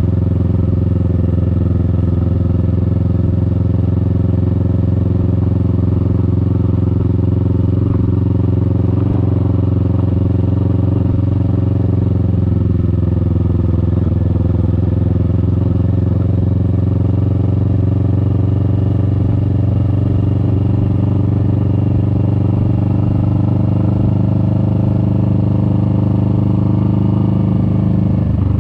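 Kawasaki Vulcan S 650's parallel-twin engine running at a steady cruise, its note holding even with little change in pitch.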